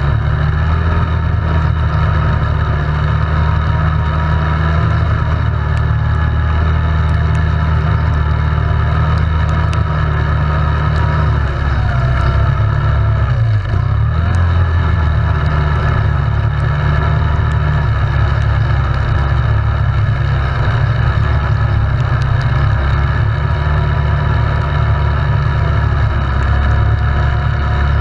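ATV engine running steadily under way, its pitch wavering with the throttle and dipping briefly about halfway before picking back up.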